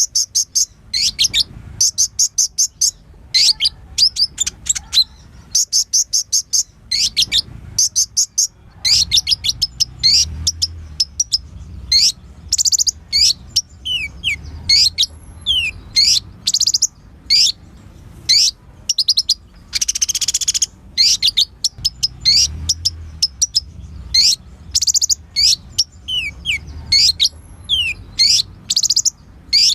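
Kolibri ninja sunbird singing nonstop: quick high chirps and rapid trilled runs one after another, with a few short falling notes and a buzzy burst about two-thirds of the way through.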